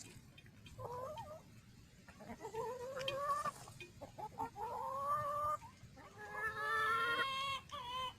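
Chickens calling: four drawn-out, slightly rising calls about two seconds apart, the last the longest, with short quick notes starting near the end.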